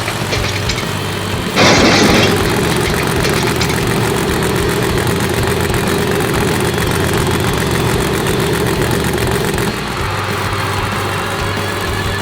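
Monster truck engine sound effect running steadily, with a loud rushing burst about two seconds in; the engine note changes and drops slightly near the end.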